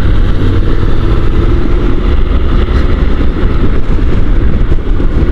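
Honda NC750 DCT motorcycle riding at road speed: a steady engine drone under a heavy rush of wind noise on the rider's helmet microphone.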